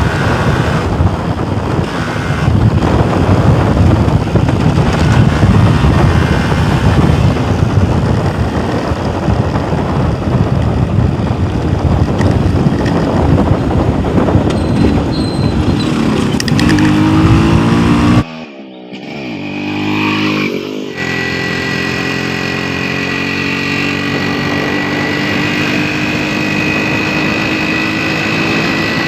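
Yamaha RX 135's 132 cc air-cooled single-cylinder two-stroke engine running under way at speed, with heavy wind rush on the microphone. Its note climbs as it revs up, then after an abrupt break about two-thirds through it runs on as a clearer, steadier engine note slowly rising in pitch.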